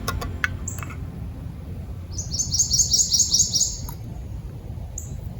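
A songbird singing a quick trill of about eight high, evenly spaced notes, with single short high chirps before and after it. A steady low outdoor rumble runs underneath.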